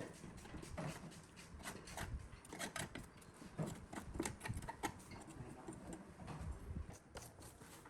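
Irregular light clicks and taps, with a few duller knocks, from tools and metal parts being handled during workshop disassembly.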